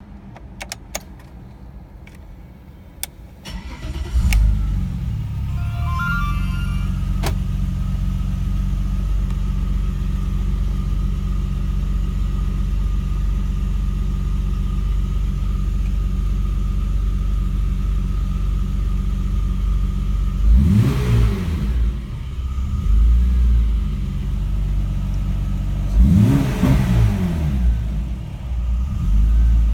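Car engine on a freshly set-up Haltech Platinum 2000 standalone ECU starting: a few faint clicks, then it fires about four seconds in, its revs rise and settle to a steady idle. Near the end the throttle is blipped twice, each a short rise and fall in revs.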